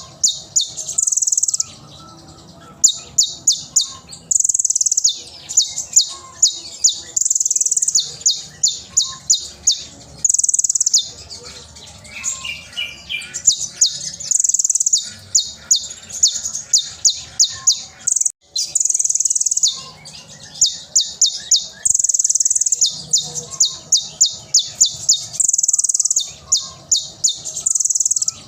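Konin (kolibri ninja sunbird) singing loudly and non-stop in a repeating pattern. Runs of sharp, rapid high chips alternate with longer buzzy trills of about a second each.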